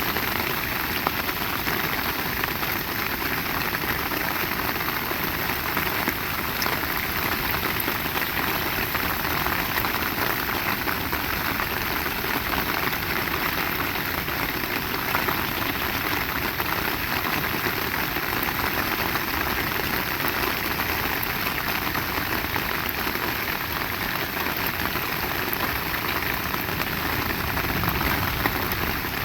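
Heavy rain falling steadily: a dense, even hiss of drops with no breaks.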